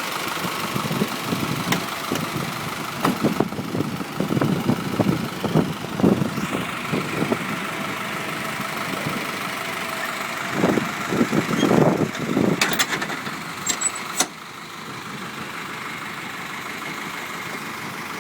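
Engine of a 2004 Isuzu refueler truck idling, with irregular knocks and rustles over it. Near the end the sound suddenly drops and turns quieter and steadier.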